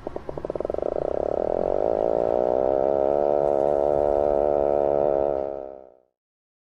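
Puffin giving its low, growling call: rapid pulses that run together into a steady rattling drone lasting about six seconds, then stopping.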